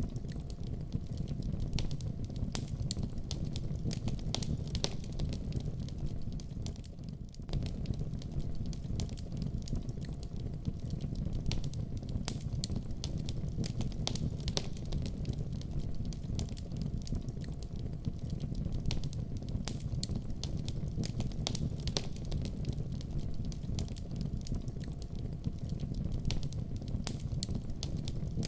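Fireplace fire crackling: a steady low rumble of flames with frequent sharp pops and snaps. It dips briefly quieter about seven seconds in.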